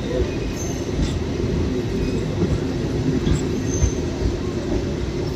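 A MEMU electric passenger train running along the track, heard from its open doorway: a steady rumble of wheels on rails and the rattle of the coaches, with a few faint short squeaks.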